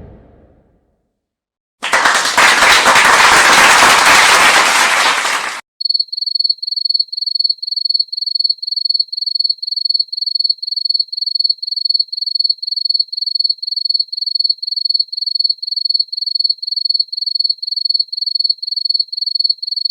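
Crowd applause sound effect for about four seconds, cutting off abruptly, then a cricket chirping effect: one steady high chirp repeating about three times a second.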